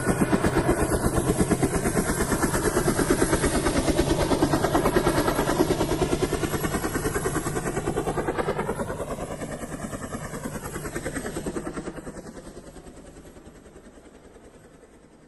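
Helicopter flying past: a rapid, even rotor chop that is loud for several seconds, bends in pitch as it passes, and fades out over the last few seconds.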